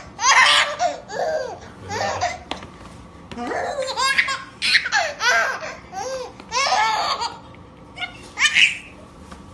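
Baby laughing hard in repeated fits of belly laughter, each a run of quick high-pitched giggles, about once a second with short breaths between.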